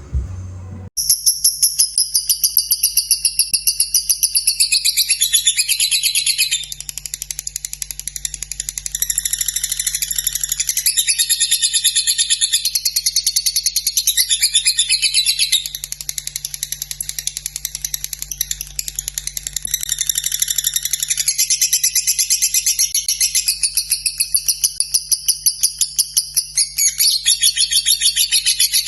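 Lovebird singing a long, unbroken chattering trill ('ngekek'), made of rapid high-pitched pulsing notes, starting about a second in.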